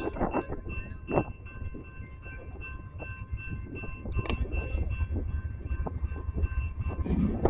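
Train running on rails: a steady low rumble with scattered knocks, alongside a faint high tone that pulses rapidly.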